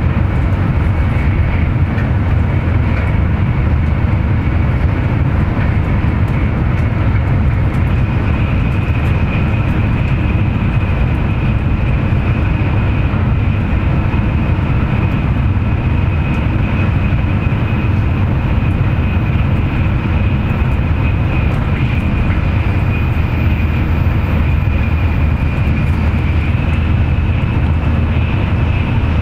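Cabin noise of a Tokaido Shinkansen train running at speed: a steady low rumble with the rush of wheels on rails and air, and a faint steady high whine over it.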